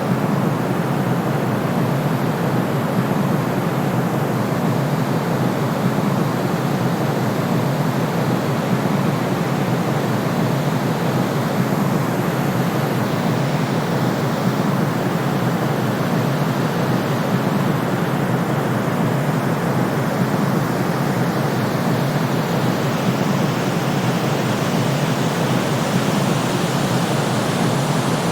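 Steady generated white noise for sleep: an even, unchanging hiss, fullest in the low-mid range with the deep bass cut off.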